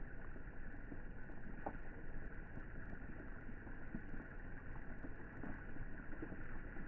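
Rain falling on the water of a swimming pool: a steady hiss of drops with scattered, slightly louder individual drop hits.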